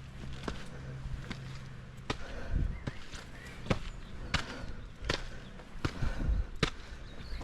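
Footsteps of someone walking at a steady pace, a thud about every 0.7 seconds.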